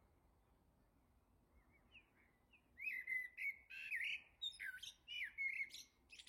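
A songbird singing a rapid run of short chirping notes, starting about three seconds in after a quiet start.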